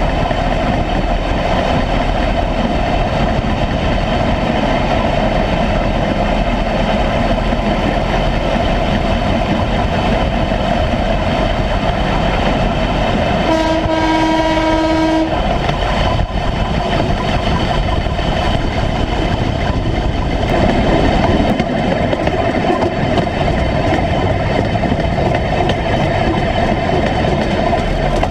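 1957 Series I Land Rover on flanged railway wheels running steadily along railway track, its engine and wheels on the rails making a continuous noise. About halfway through, a horn sounds once for under two seconds.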